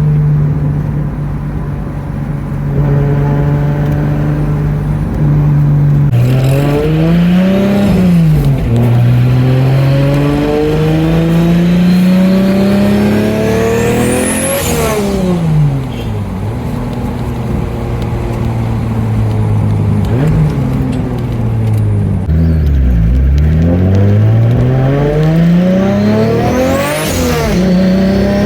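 Single-turbo Dodge Stealth's 3.0-litre V6 running steadily, then accelerating hard through the gears, its pitch climbing and dropping at each shift. A high turbo whistle rises sharply about halfway through and again near the end. Between pulls there is a spell of steady cruising and a slowdown about three quarters of the way in.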